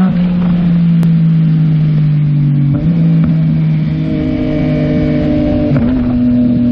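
Yamaha MT-09 SP's three-cylinder engine through a Yoshimura AT2 full exhaust, running loud at steady revs while riding. The note breaks briefly and shifts in pitch twice, about three and six seconds in.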